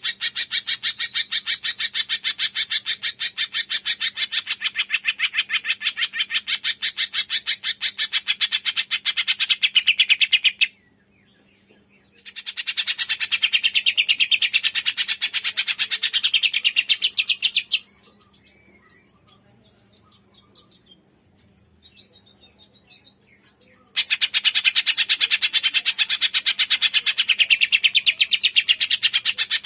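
Greater green leafbird (cucak ijo) singing its rapid-fire 'tembakan' chatter: long runs of fast, evenly repeated high notes. The song breaks off briefly before the middle, then again for several seconds with only faint scattered chirps, and resumes near the end.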